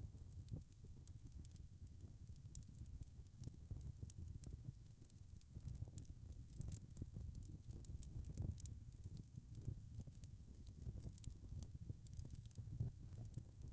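Wood fire crackling and popping: many small irregular snaps over a low, steady rumble of flames.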